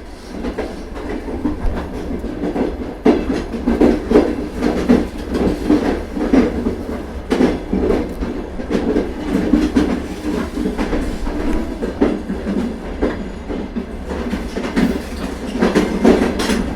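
A train rolling along the tracks, its wheels clacking over the rail joints in a steady, loud rumble.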